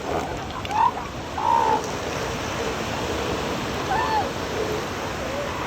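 Steady wash of surf on a beach, with a few short, pitched calls from female elephant seals quarrelling over space.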